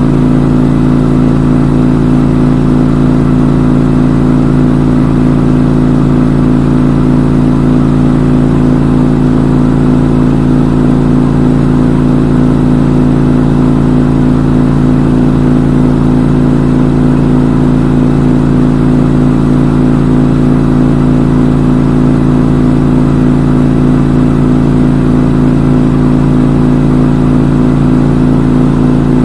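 Front-load washing machine in its spin cycle, the drum spinning at a steady speed with an even, unchanging hum.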